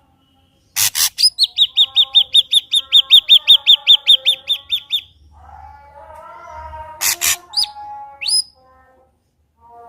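Ashy drongo singing. After a moment of quiet it gives a sharp harsh note, then a fast run of about twenty high chirps, about five a second, with softer lower warbling under them. Near the end come two more harsh notes and a couple of quick rising whistles.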